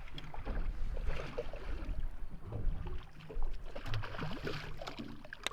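Water slapping against the hull of an anchored small fishing boat, with wind buffeting the microphone and a few small knocks.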